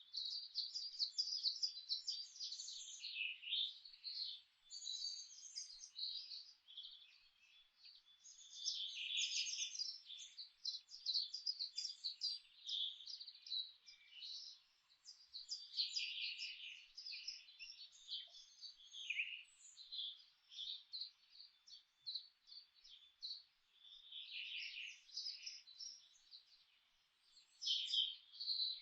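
Songbirds chirping and singing in quick, high, overlapping phrases, almost without a break, over a faint steady hiss.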